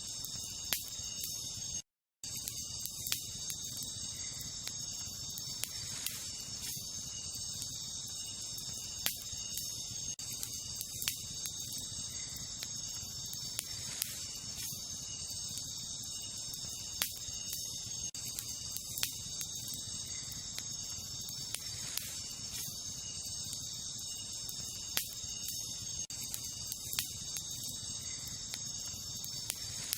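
Wood campfire crackling, with sharp pops at irregular intervals, over a steady high-pitched chorus of insects. The sound drops out to silence for a moment about two seconds in.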